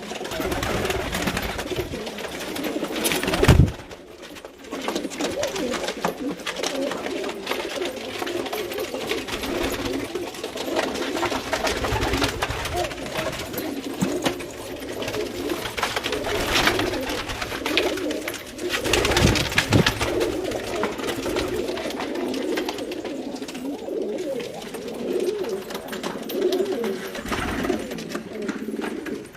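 Domestic pigeons cooing continuously, with one loud sharp knock about three and a half seconds in.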